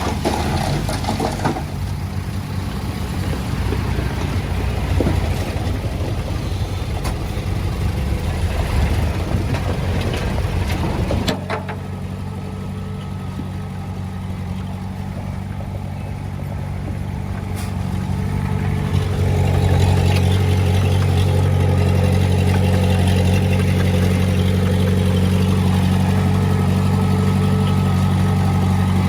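Diesel engine of heavy earthmoving equipment running steadily. It drops suddenly about eleven seconds in, then rises again about nineteen seconds in and holds at a louder, steady pitch.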